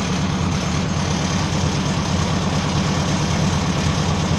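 Ford 600 tractor's gasoline engine idling steadily with its fuel supply shut off. It is running on the gas left in the fuel lines and carburetor bowl, which will soon run out.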